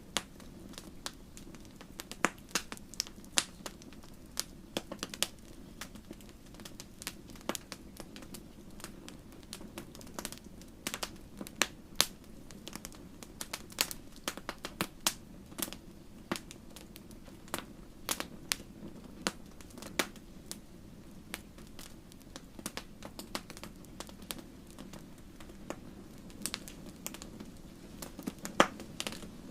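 Wood fire in a fireplace crackling, with irregular sharp pops of varying loudness over a low steady rumble.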